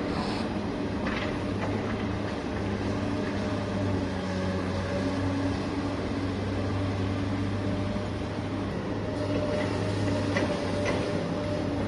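Small electric drive motors and hydraulic pump of RC construction models running steadily with a humming whine whose pitch shifts slightly, with a few light clicks.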